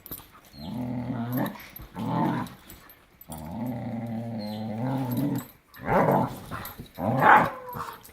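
A dog growling in two long, steady growls, the second about two seconds long, with short sharp barks between them and two more near the end, as in rough play-fighting.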